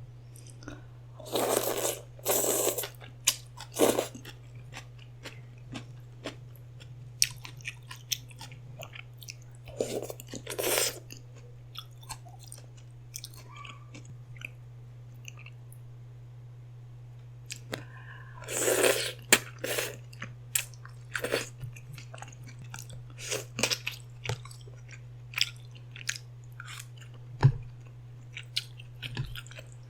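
Close-miked eating: chewing and crunching with many small sharp clicks and a few louder bursts of about a second, over a steady low hum.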